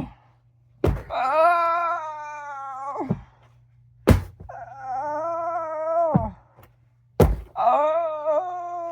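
Three thuds, about three seconds apart, each followed by a long drawn-out cry of pain in a person's voice that holds its pitch and then drops away as it ends.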